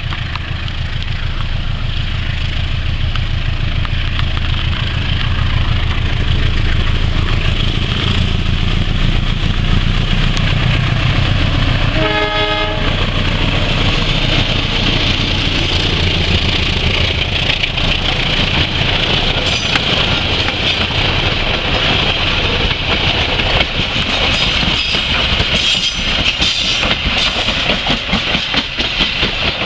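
Diesel locomotive running past with a heavy engine rumble, and a short blast of a train horn about twelve seconds in. Then the passenger coaches roll by close, their wheels clacking over the rail joints over a steady hiss of wheel on rail.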